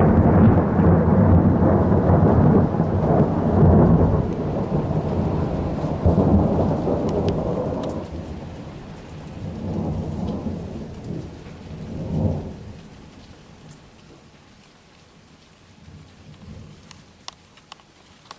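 Deep thunder rumbling, loud for the first several seconds, then rolling away with two smaller swells about ten and twelve seconds in before fading out. Rain falls underneath, with a few sharp drips near the end.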